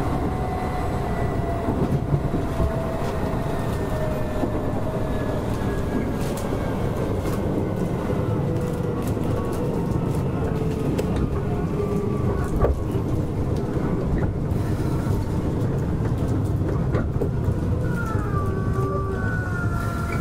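Keisei 3400 series electric train running along the line: a steady rumble of wheels on rail with a faint motor and gear whine that slowly falls in pitch as the train eases off speed. There is a single sharp knock about two-thirds of the way through, and new wavering whine tones come in near the end.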